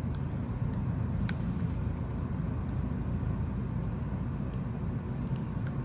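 Steady low background rumble with a few faint, small clicks scattered through it, as the phone's small internal parts are handled and pressed back into place.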